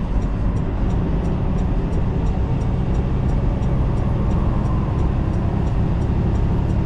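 Steady drone of a semi truck's diesel engine and road noise, heard inside the cab while cruising at highway speed.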